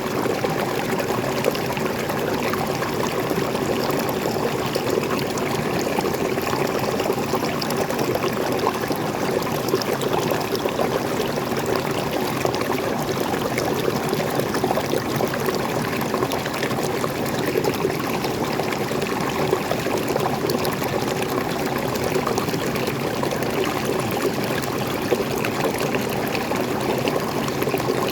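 Small freshwater waterfall pouring and splashing, a steady, unbroken rush of water.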